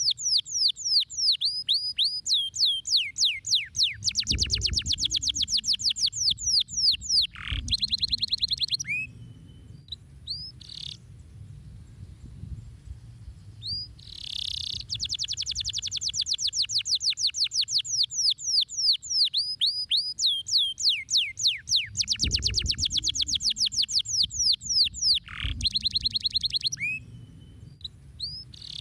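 Domestic canary singing: long rapid trills of evenly repeated, high down-slurred notes, one trill running into the next, broken by a pause of a few seconds about a third of the way in and another near the end.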